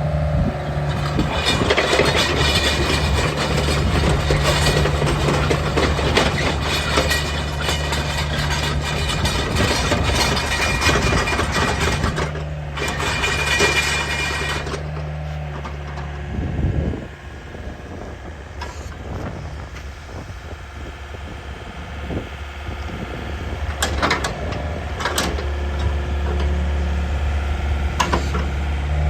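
Diesel engine of a Hyundai R55-7 mini excavator running with a steady hum, louder and busier with a high whine for roughly the first half, then settling to a quieter steady run just past the middle. A few sharp clicks come near the end.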